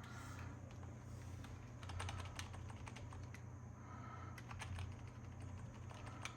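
Computer keyboard typing in short bursts of key clicks, about three bursts with pauses between, over a steady low hum.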